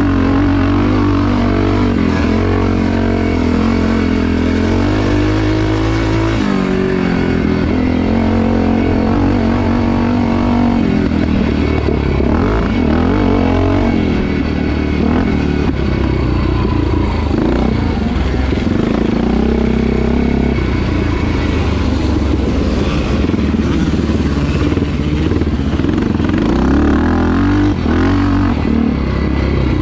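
Motocross motorcycle engine running hard, its pitch rising and falling again and again as the throttle is opened and closed.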